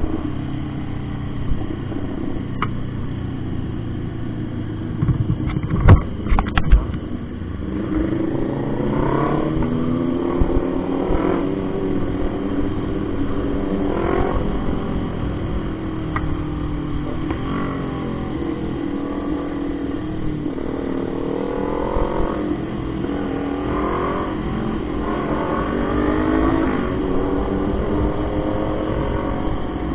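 Motorcycle engine running on the road, its pitch climbing and dropping again and again as it accelerates and shifts through the gears. A short cluster of loud thumps comes about six seconds in.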